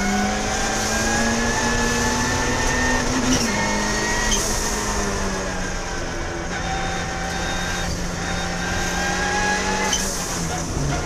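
Racing car engine running at high revs over a steady hiss. Its pitch climbs slowly, then drops sharply about three and a half seconds in, as on an upshift.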